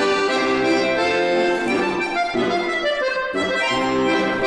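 Accordion playing a dance accompaniment in sustained chords, its phrases breaking briefly about halfway through and again near the end.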